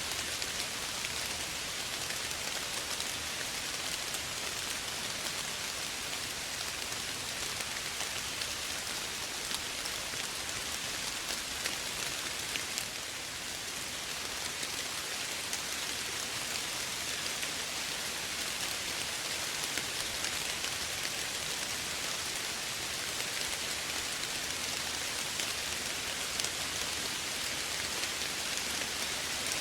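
Steady light rain: an even patter of raindrops, heaviest in the high hiss, with small drop ticks scattered through it.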